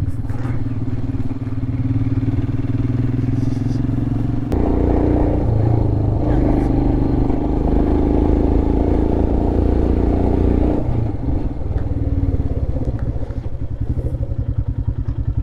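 Royal Enfield Himalayan's 411 cc single-cylinder engine running while the bike is ridden. The throttle opens about four and a half seconds in and eases off again around eleven seconds, leaving a lighter, pulsing thump.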